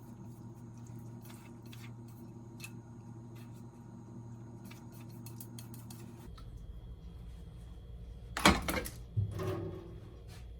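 Kitchen dishes and utensils: light scattered clinks over a steady low hum, then two loud clattering knocks less than a second apart near the end.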